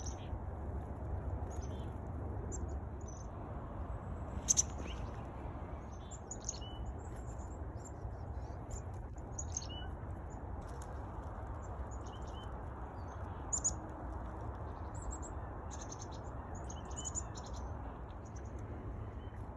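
Small wild songbirds chirping and calling in short, scattered notes, with a couple of louder, sharper chirps close by, over a steady low background rumble.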